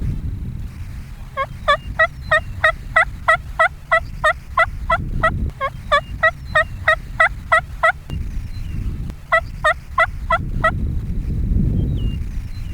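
Long strings of rapid turkey yelps, about five notes a second, each note falling in pitch. Three runs, the first about four seconds long, with a short pause before a second run and a longer gap before a brief third. A low rumble runs underneath.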